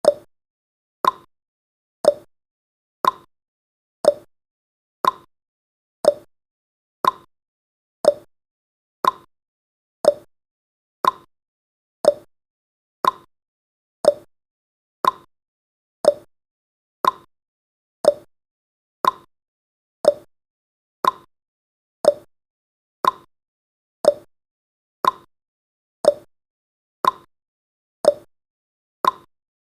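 Countdown timer's clock-tick sound effect: one short, sharp tick every second, alternating between a higher and a lower tick like a tick-tock.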